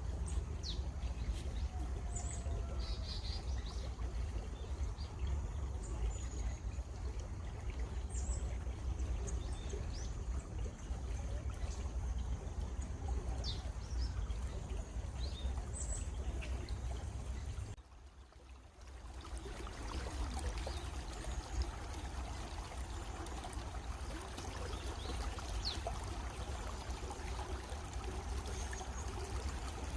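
Steady running stream water, with short high bird chirps scattered through it. The water sound dips briefly about two-thirds of the way in, then carries on.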